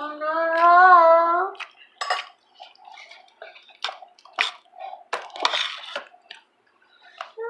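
A drawn-out, wavering high voice for about a second and a half, then scattered clicks and clinks of dishes and cutlery at a shared meal.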